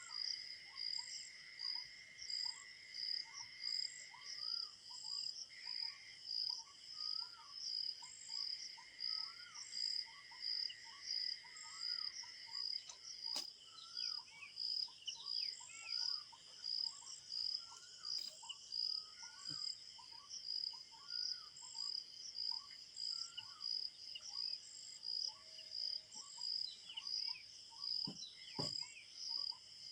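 Crickets chirping in a steady pulsing rhythm, about one and a half chirps a second, with many short, repeated bird calls over it.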